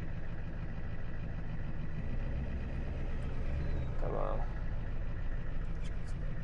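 Tow truck's engine running steadily while driving, a low rumble heard from inside the cab.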